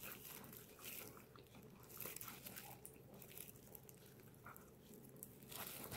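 Faint chewing with soft, irregular crunches: someone eating fried chicken karaage.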